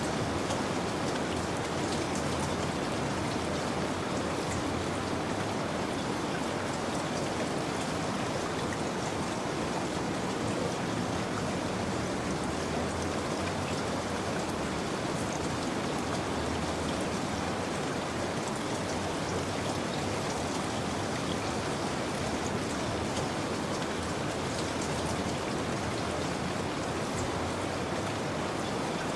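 Steady rain falling, an even hiss with small drop ticks scattered through it.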